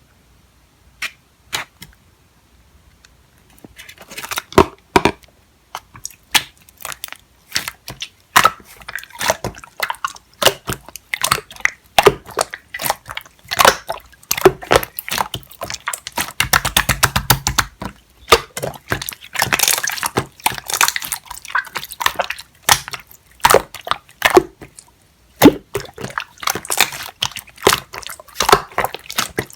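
Clear slime being pressed and squeezed by hand, giving dense runs of sharp popping clicks. It starts with two lone clicks and picks up about four seconds in.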